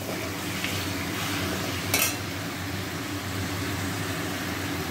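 Chicken pieces sizzling steadily as they fry in a metal kadai, with a metal spatula clinking once against the pan about two seconds in.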